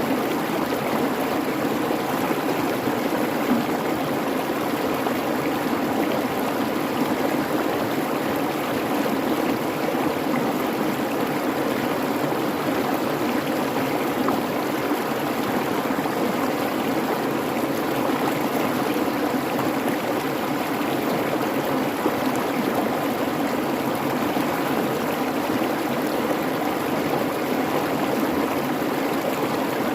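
Creek babbling steadily, an even rush of flowing water.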